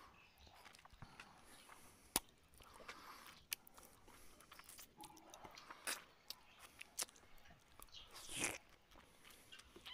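A man eating rice by hand, close to the microphone: quiet chewing with scattered sharp mouth clicks and smacks. A louder, longer wet noise comes near the end.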